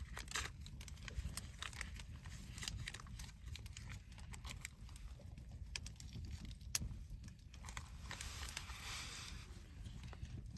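Wood fire in a small fire pit crackling, with irregular sharp clicks and pops over a low steady rumble.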